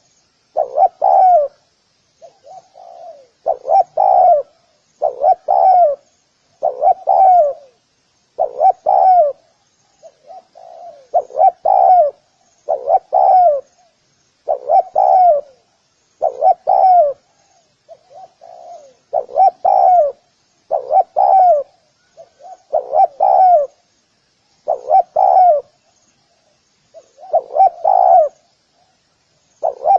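Spotted dove cooing over and over, a short phrase of a few low coos about every two seconds. Faint high chirping runs underneath.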